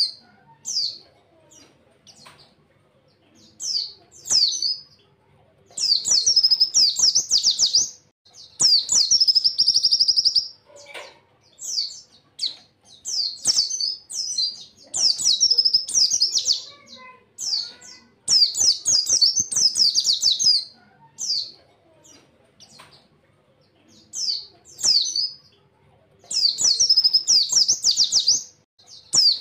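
Pleci (white-eye) singing in fast, high chattering phrases of one to two seconds each, about a dozen of them with short pauses between. This is the rapid-fire 'tembakan' song that keepers play to train other pleci. Faint clicks sound in the gaps.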